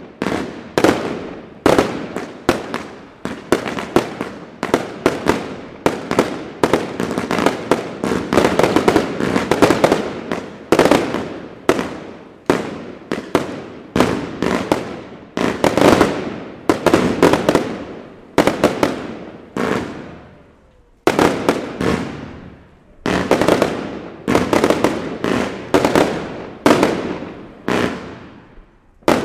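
Aerial fireworks bursting in quick succession overhead, bang after bang with each one trailing off. The bursts pause briefly twice about two-thirds of the way through, then carry on.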